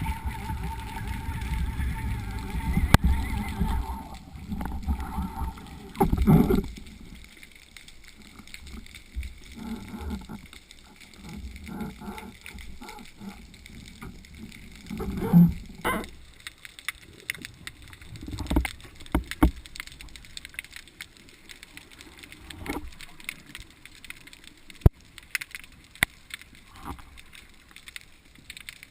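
Handling noises near water: a low rumble for the first few seconds, then scattered clicks and knocks with a few heavier thumps, and some water gurgling.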